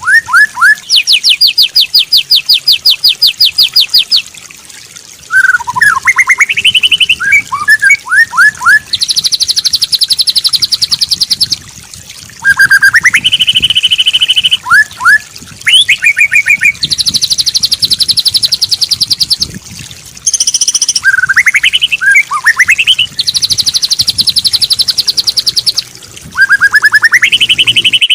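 Loud songbird song from a 'masteran' training track for white-rumped shamas: long rattling trills of rapid, evenly repeated notes alternating with clusters of rising whistled notes, the same phrases coming round again and again.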